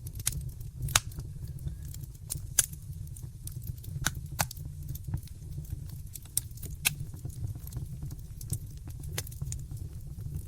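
Wood fire in a fireplace crackling, with irregular sharp pops over a steady low rumble; two pops, about a second in and about two and a half seconds in, are the loudest.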